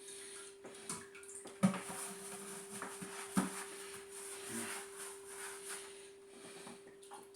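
Light handling sounds, scattered clicks and rustles with two sharper knocks about a second and a half and three and a half seconds in, over a steady faint hum.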